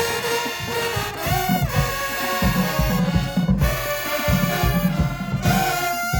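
High school marching band playing: the brass section, trombones and trumpets, holds full chords over a steady bass-drum beat that comes in stronger about halfway through.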